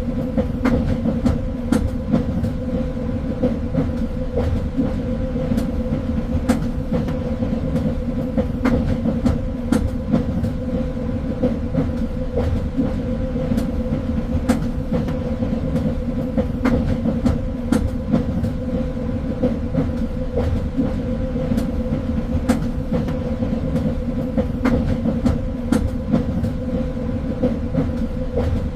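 Train running steadily on the rails: a continuous low rumble with a steady hum, and irregular sharp clicks and knocks from the wheels on the track.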